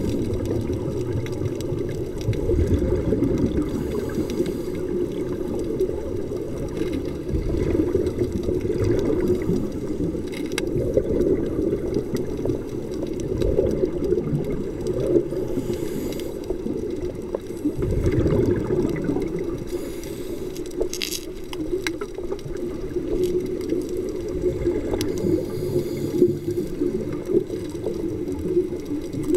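Underwater sound from a diver's camera: a steady, muffled water rush, with the diver's scuba breathing coming back every few seconds and a few faint clicks.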